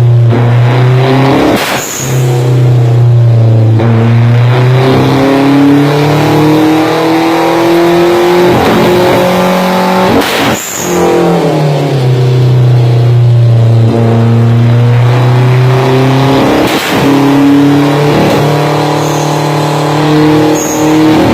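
A car engine running loud and revving, its pitch climbing slowly, with three sharp exhaust bangs (backfires) spread through it.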